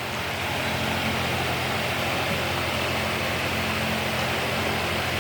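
Steady mechanical hum with an even rushing of air, unchanging throughout.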